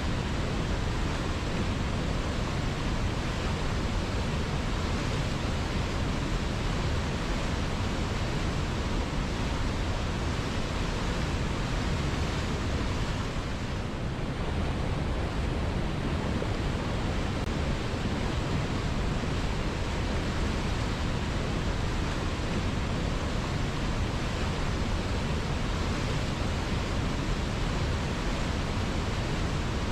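River water flowing: a steady, even rush with no single splashes standing out.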